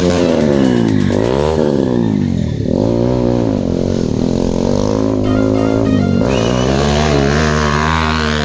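Motorcycle engine revved hard and let fall back again and again, a rise and drop every second or two.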